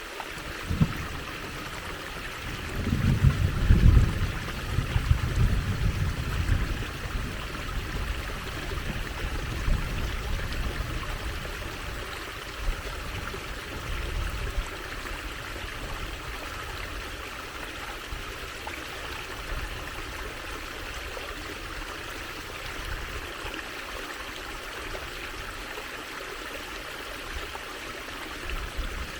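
Water trickling steadily, an even splashing hiss. Low rumbling bursts come in for a few seconds near the start and fade out by about halfway.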